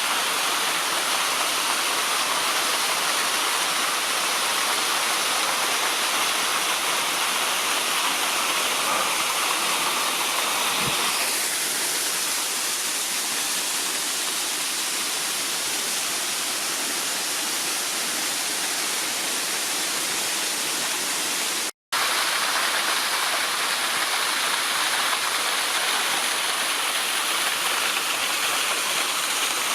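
Waterfall: a steady rush of falling water with no pitched tones. The sound's character shifts slightly about eleven seconds in, and it cuts out to silence for a split second about two-thirds of the way through, as at an edit.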